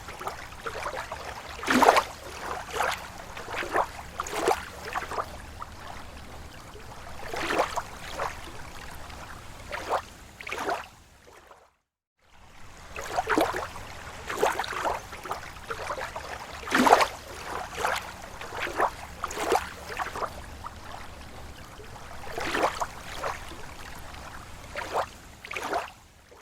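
Small waves lapping against a lake shore: irregular little splashes and gurgles of water, a few each second, over a soft steady wash. The sound cuts out completely for about half a second near the middle, then resumes.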